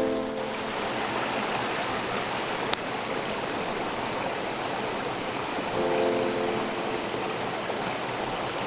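Mountain stream flowing steadily, with a single sharp click about three seconds in. Soft background music chords come in briefly near the start and again around six seconds.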